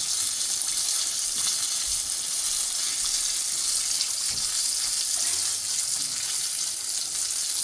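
Fish frying in hot oil in a pan: a steady, even sizzle.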